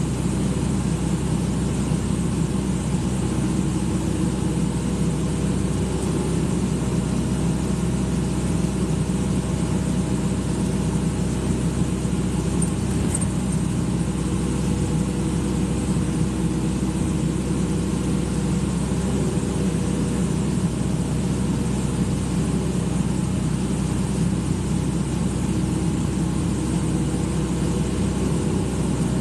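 Excavator's diesel engine running steadily at an even speed, with no revving.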